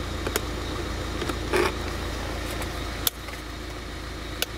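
Car engine idling, heard inside the cabin as a steady low hum, with a few sharp clicks and knocks from handling the compressor plug in the 12-volt socket.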